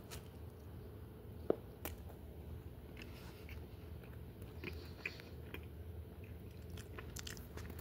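Faint chewing of a mouthful of garlic bread and pot roast, with scattered soft mouth clicks and one sharper tick about a second and a half in, over a low steady room hum.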